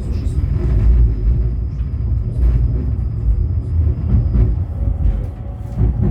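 A 71-911EM "Lvyonok-M" tram rolling along the rails between stops, heard from inside the car: a steady low rumble with a few light clicks. A faint high whine runs through it and stops near the end.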